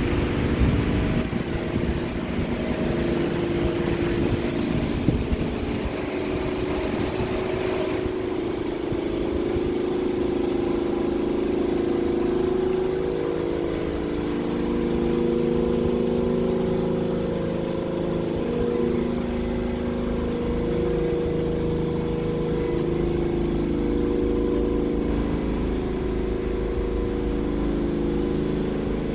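A car's engine running steadily at low speed, a low hum with a rumbling undertone that shifts slightly in pitch now and then.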